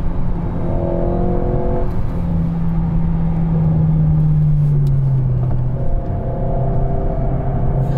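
Alpine A110's 1.8-litre turbocharged four-cylinder engine running while driving, heard from inside the cabin over road noise. The engine note holds steady, then drops slightly in pitch about five seconds in.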